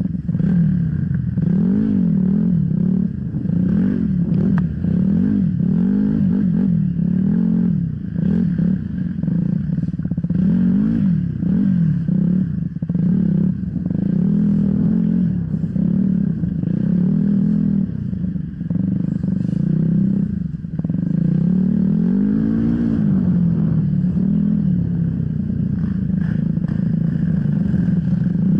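Off-road enduro motorcycle engine, its pitch rising and falling about once a second as the throttle is worked over rough trail, with rattling mixed in.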